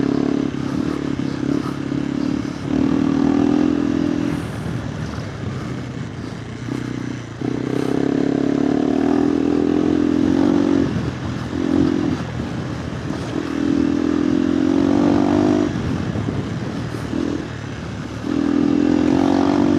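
KTM 390 Adventure R's single-cylinder engine heard through a Norifumi Whoops stainless slip-on exhaust with the dB killer fitted, the bike being ridden off-road. The exhaust note swells loud under throttle and drops back as the throttle is rolled off, about five times.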